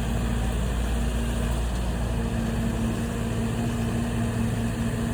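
An engine running steadily at low speed, a constant low hum. Its deepest tone shifts slightly about two seconds in.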